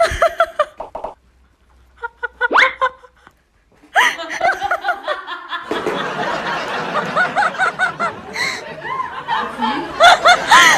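A person laughing in short repeated bursts, growing louder near the end.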